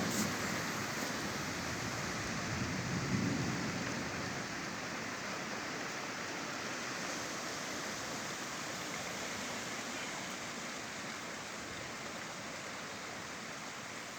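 Steady rain hiss during a thunderstorm, with the tail of a thunderclap rumbling away at the start and a second, softer low rumble of thunder about three seconds in. The rain slowly eases off.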